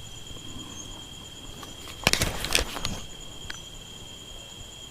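Night insects trilling, a steady high-pitched tone, with a short cluster of rustling clicks about two seconds in.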